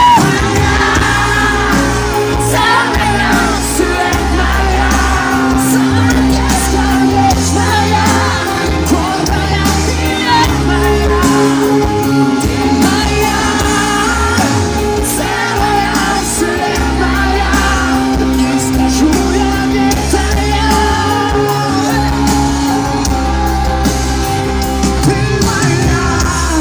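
Live pop-rock concert music through a PA: a band with a steady bass line and drums, and singing with some shouts.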